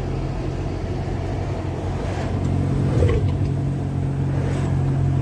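Car engine and road noise heard from inside a moving car: a steady low hum that grows a little stronger about halfway through.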